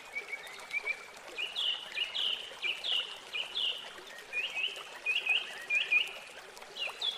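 A songbird singing: a run of short chirps, each dropping in pitch, roughly two a second, over a faint steady trickle of water.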